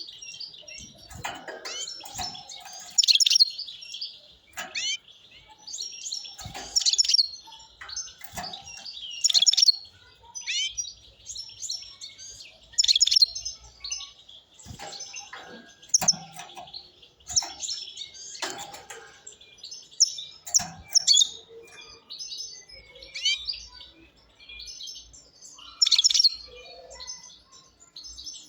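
European goldfinch singing: a fast, high-pitched twittering song of rapid notes and trills, delivered in bursts separated by short pauses. The bird is wild-caught.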